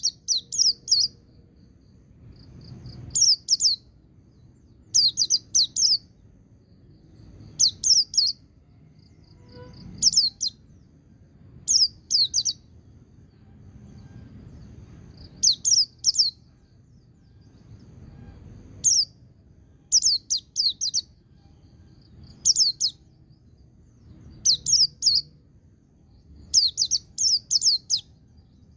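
Pleci (white-eye, Zosterops) song: bursts of rapid, high, downward-sweeping notes about a second long, repeated every two seconds or so, with a faint low rumble between them.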